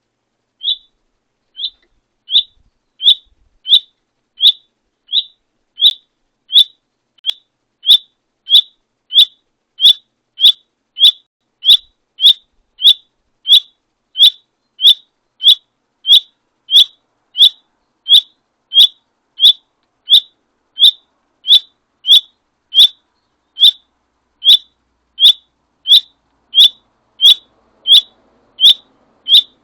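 A small songbird calling close by: one short, sharp, high note repeated over and over at a very even pace, about three notes every two seconds.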